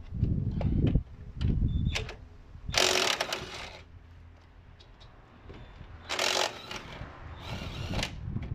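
Hand tools and metal parts being handled: several short bursts of clicking and clatter, the loudest about three seconds in.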